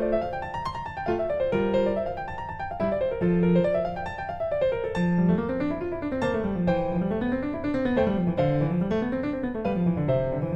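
Background piano music, notes rising and falling in rolling arpeggios.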